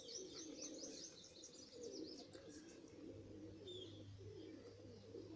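Faint background birds: a quick run of high chirps in the first second and a half, and low cooing throughout. A low steady hum comes in about three seconds in.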